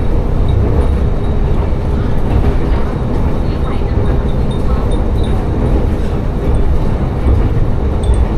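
Tsugaru Railway diesel railcar running steadily between stations, a continuous low rumble of engine and wheels heard inside the car. Small wind chimes (fūrin) hung in the car give short high tinkles every second or so.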